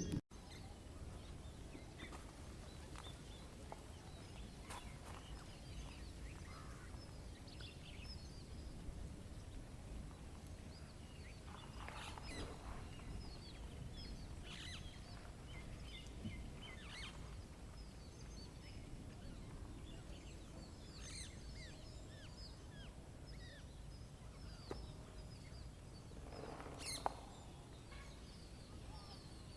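Faint natural outdoor ambience: small birds chirping and calling now and then over a steady low rumble, with one louder call near the end.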